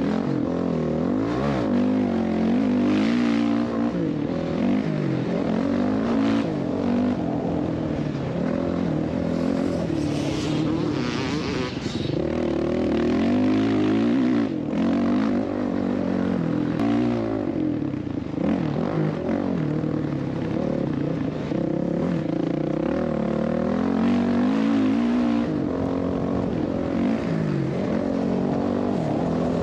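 Dirt bike engine revving up and down over and over as it is ridden, its pitch rising and falling repeatedly.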